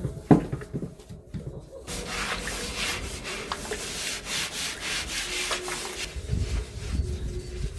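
A single knock near the start, then a steady rubbing, scraping noise from about two seconds in that fades out after about four seconds.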